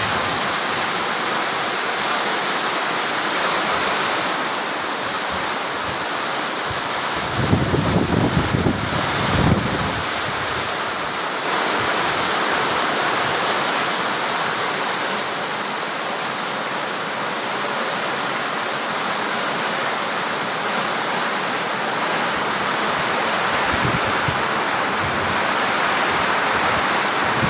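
Heavy rain pouring down in a steady, dense hiss. Low rumbles of wind buffeting the microphone come in for a couple of seconds at about eight seconds in and again near the end.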